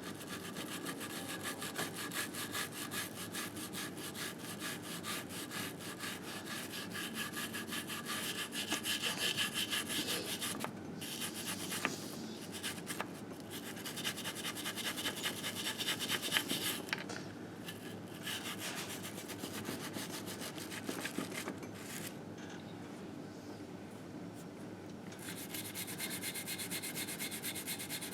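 Rapid back-and-forth scrubbing on a Harley-Davidson Sportster engine case, cleaning off old grime by hand. It keeps up a quick stroke rhythm with a hissing rasp, with a few short pauses along the way.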